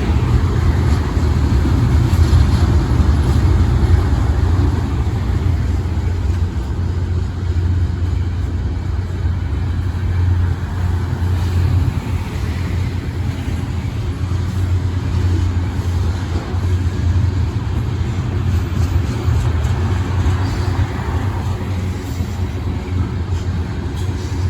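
Iowa Interstate Railroad freight train rolling past, a steady low rumble with a few faint clicks in the second half.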